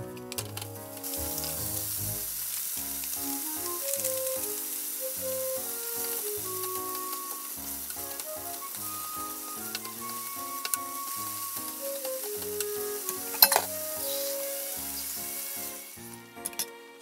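Hijiki seaweed, carrot strips and soybeans sizzling in a hot oiled frying pan as they are stir-fried with a wooden spatula; the sizzle stops about a second before the end. Background music plays throughout, and there is one sharp knock about 13 seconds in.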